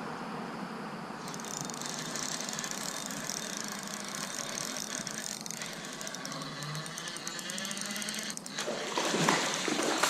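Fishing reel ticking rapidly while a hooked walleye is played toward the kayak. Splashing near the end as the fish reaches the surface.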